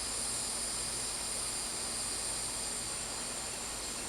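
Crickets chirping steadily in a continuous high trill, with a faint hiss beneath.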